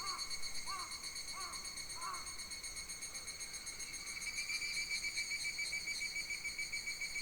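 A steady, rapidly pulsing insect chorus shrills through the summer forest and grows louder about four seconds in. Over the first two seconds, a bird repeats a short arching call roughly every half second.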